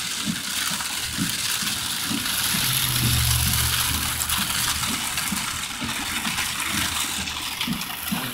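Heavy rain pouring onto a car's roof and windshield, heard from inside the cabin as a loud, steady hiss. A low rumble swells and fades around the middle.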